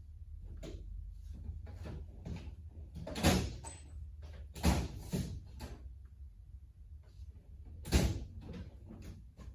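A string of separate knocks and clunks, like parts or tools being handled and set down, over a low steady hum. The loudest come about three seconds in, twice around five seconds, and about eight seconds in.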